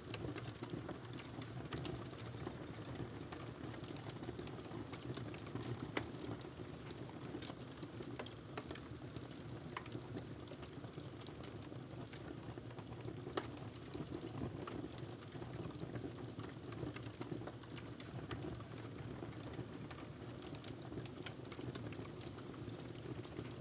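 Wood fire crackling in a fireplace: a steady low rumble under many small, irregular pops and crackles, with two sharper snaps about six and thirteen seconds in.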